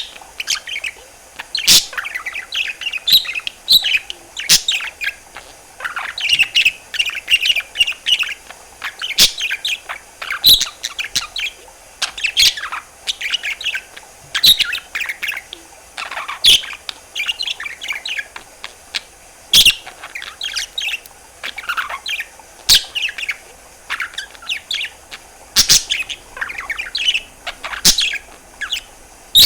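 Budgerigar warbling and chattering: a continuous run of chirps, trills and short whistles, broken every second or two by sharp clicks.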